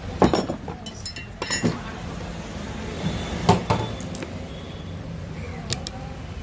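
Sharp metallic clicks and clinks from hand tools working on a burnt mixer-grinder field coil, about half a dozen scattered strikes, over a low steady hum.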